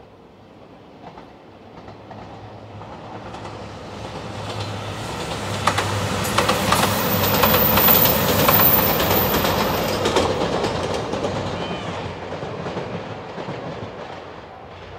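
JR Shikoku 2700 series diesel limited-express train passing, growing louder to a peak about eight seconds in, then fading away. Wheels clack over rail joints as it goes by, most plainly around the loudest moment.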